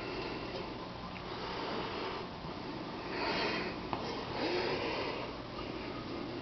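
A person breathing and sniffing close to the microphone in a few short hissy swells, with one light click in the middle over a steady low hum.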